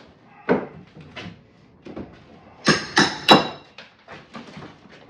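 Knocks and clanks of a fireplace surround being broken out: a sharp blow about half a second in, a lighter one after it, then three loud blows in quick succession around the middle, with a metallic ring.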